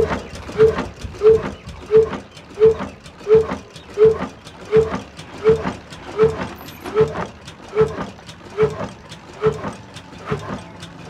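Old heavy stationary diesel engine running slowly and evenly, one heavy exhaust beat about every two-thirds of a second.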